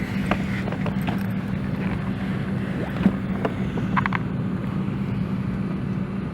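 Steady cabin noise inside a Boeing 737-700 airliner before departure: air rushing from the ventilation over a constant low hum, with a few faint clicks and knocks.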